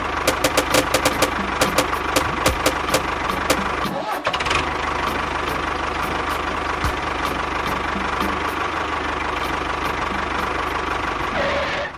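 Engine running, with rapid irregular knocking clicks over the first few seconds. There is a short dip about four seconds in, then it runs steadily until it cuts off near the end.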